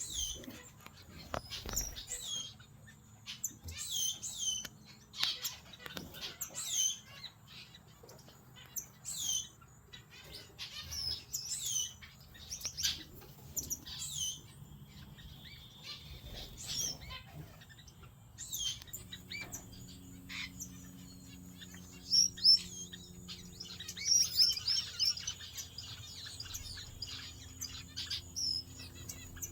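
Small captive finches chirping: many short calls that sweep downward in pitch, about one every second, crowding together near the end.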